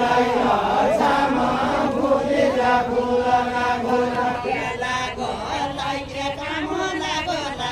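A group of voices singing a Deuda folk song together in a chant-like melody.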